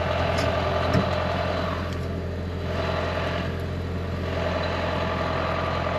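Engine running steadily at idle: a continuous low hum with a steady tone above it.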